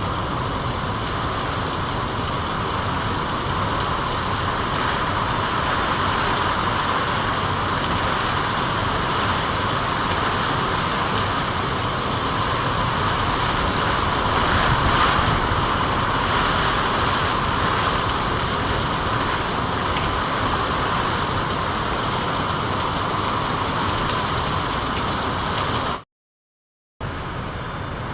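Steady hiss of falling rain. It cuts out completely for about a second near the end, then resumes.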